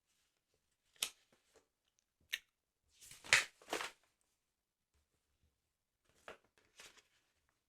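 Paper of a sticker album being handled: a few short crackles and rustles, the loudest a cluster about three seconds in, with two softer ones near the end.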